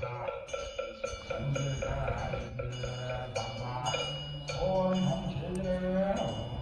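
Korean temple wind bells (pungyeong) hanging from the eaves, their clappers striking them over and over so the ringing metallic tones overlap. Under them is a low, wavering voice-like sound in the second half.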